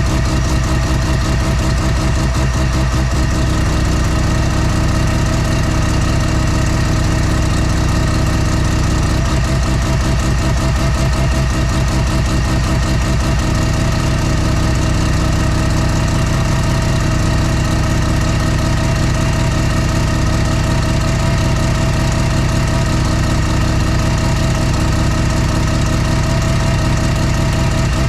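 Mazda FD RX-7's semi-peripheral-ported, big-turbo rotary engine idling steadily while it warms up after its first start, with the brappy idle of a ported rotary.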